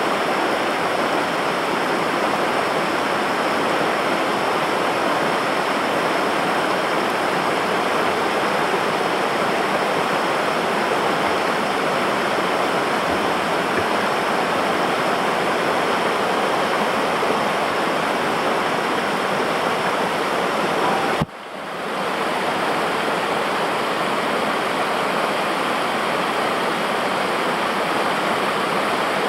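Steady rush of river water over rapids or a waterfall. It breaks off for an instant about 21 seconds in and swells back, as at an edit.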